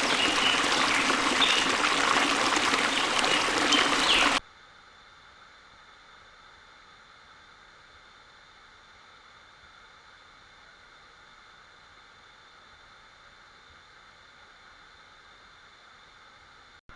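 Rushing water of a waterfall, a dense steady splashing with a few short high chirps over it, that cuts off abruptly about four seconds in, leaving only a faint steady hiss.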